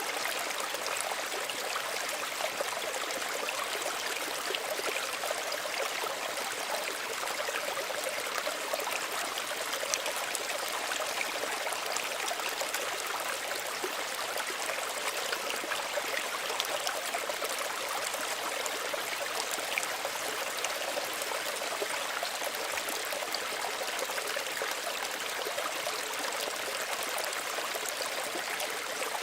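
Small stream running steadily over stones, a constant trickling and babbling of water.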